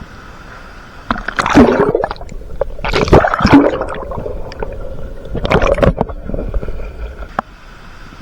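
Water splashing in three loud bursts about two seconds apart, over a steady rush of falling water.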